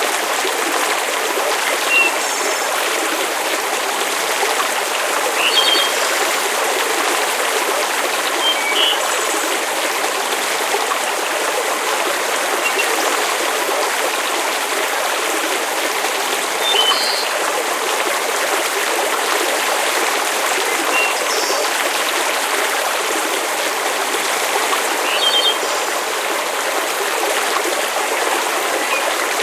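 Steady rushing water with a few brief, high chirps scattered through it.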